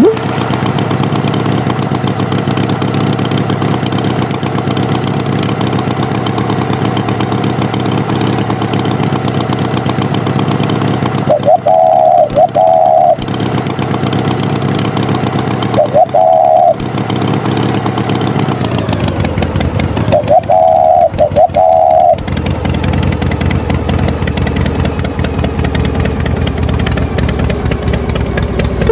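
Tractor engine running steadily. Short beeps, mostly in pairs, sound about twelve seconds in, again near sixteen seconds and several times around twenty-one seconds. The engine's pitch drops partway through.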